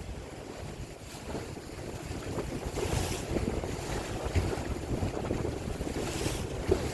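Wind buffeting the microphone over the sound of open water lapping around a boat, a steady low rumble with a few faint swells of splash-like noise.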